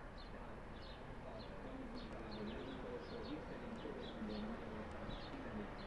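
Small birds chirping: short high chirps, several a second, over a steady low background rumble.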